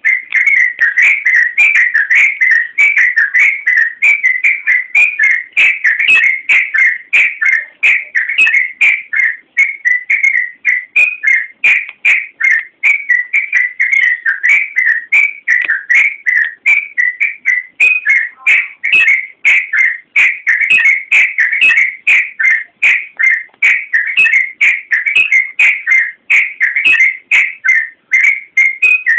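Sooty-headed bulbul (trucukan) singing continuously and loudly: a rapid, unbroken stream of short whistled notes, several a second, staying around the same pitch.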